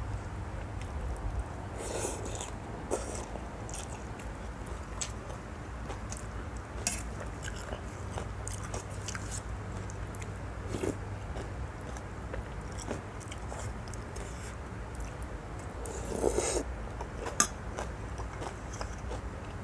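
A person eating noodle soup: chewing and mouth noises with scattered small clicks, and a louder burst about 16 seconds in, over a steady low hum.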